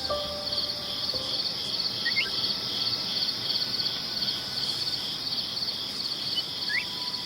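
Insects chirping in a steady, rhythmic trill of rapid pulse trains, with two faint short rising whistles partway through.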